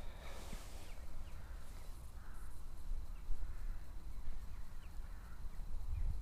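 Distant bird calls, short and repeated about once a second, over a steady low wind rumble on the microphone.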